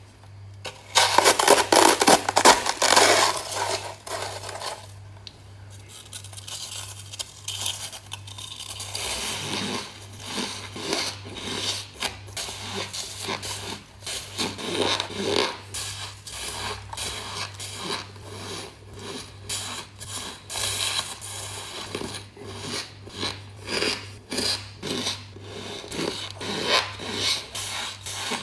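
Close-miked ice being bitten and chewed: a loud, dense stretch of crunching about a second in, then a long run of short crunches and crackles at an uneven chewing pace. A faint steady low hum sits underneath.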